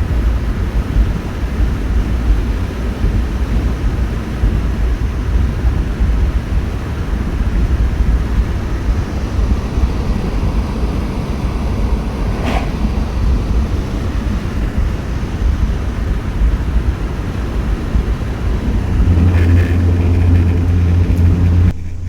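Steady low rumble of a vehicle on the road, heard from inside, with one brief click about halfway. A steady low hum comes in for the last few seconds.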